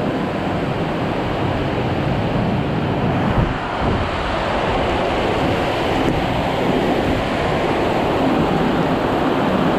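Heavy downpour with strong wind: a steady rushing roar of rain, and gusts buffeting the microphone.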